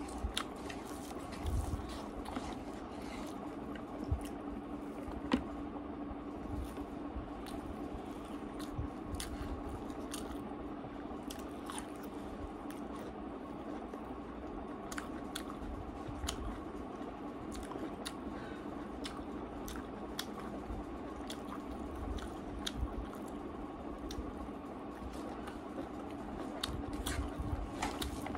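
Close-up chewing and wet mouth sounds of a person eating rice and soft food by hand, with many small scattered clicks and smacks, over a steady low background hum.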